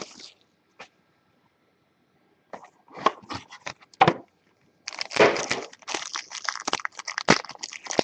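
Plastic shrink wrap and packaging on a box of trading cards crackling and tearing as the box is opened by hand. Scattered crackles come about two and a half seconds in, then a dense run of crackling from about five seconds in.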